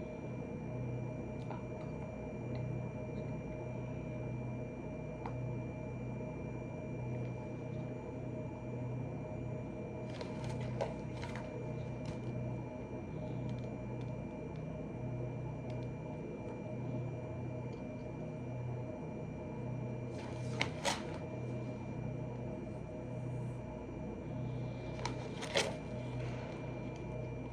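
Steady room hum with a few short, faint clicks and taps: a small cluster about ten seconds in, one sharper pair near two-thirds of the way through, and another pair near the end.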